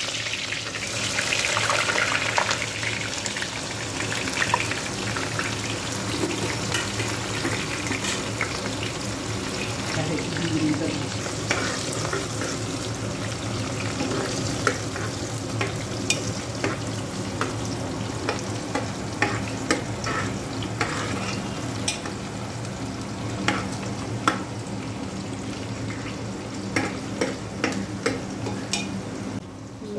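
Food frying in hot oil in an aluminium pressure-cooker pot: a steady sizzle, loudest in the first couple of seconds, while a metal spatula stirring the pot clicks and scrapes against its sides now and then.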